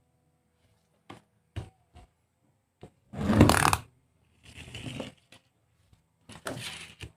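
A string of sharp clicks followed by three short rustling, scraping bursts, the loudest about three seconds in.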